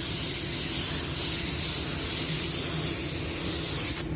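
Compressed-air paint spray gun hissing steadily as blending binder is sprayed onto a car door. The hiss cuts off sharply about four seconds in as the trigger is released.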